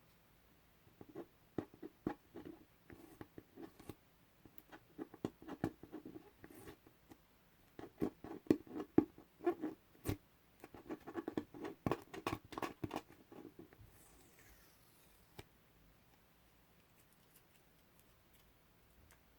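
Masking tape being peeled off a surface, making sticky, crackling peeling sounds in bursts for about the first fourteen seconds, then it falls quiet.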